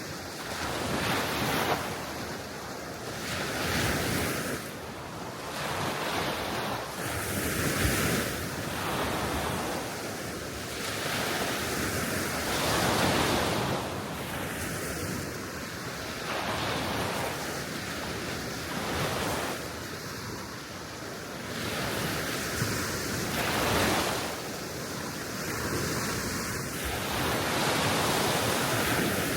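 Gentle Baltic Sea waves washing onto the shore one after another, swelling and easing every few seconds, with wind blowing throughout.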